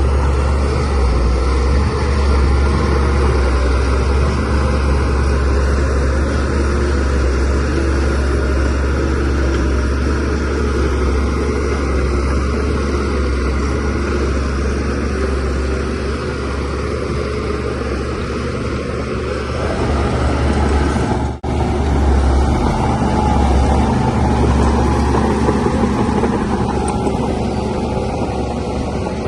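DH17C3PRO bulldozer's diesel engine running steadily under load, a continuous deep drone, with one split-second break about two-thirds of the way through.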